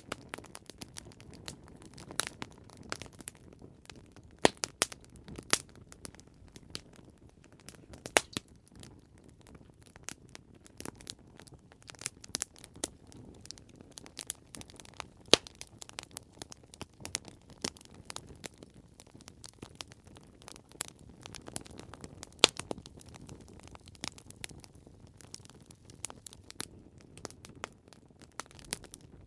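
Wood fire crackling: irregular sharp pops and snaps, a few louder ones, over a soft low hiss of burning.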